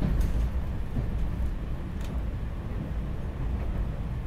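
SEPTA Regional Rail train running, a steady low rumble with a few light knocks near the start and about a second and two seconds in.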